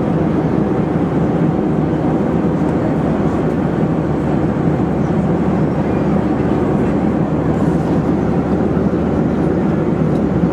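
Steady cabin noise of a Boeing 737-400 at cruise: the hum of its CFM56 turbofan engines and the rush of air along the fuselage, heard from inside the cabin.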